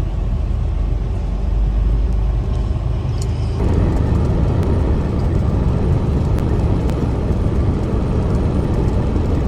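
Semi truck driving on the road: steady engine and road rumble, which turns into a louder, fuller noise about three and a half seconds in.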